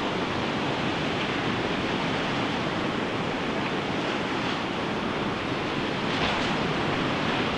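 Ocean waves breaking and washing on a beach, a steady rush of surf with a brief swell of hiss about six seconds in.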